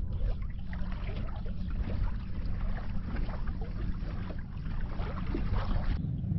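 Water splashing and lapping against a kayak hull in choppy water, under a steady low rumble of wind on the microphone.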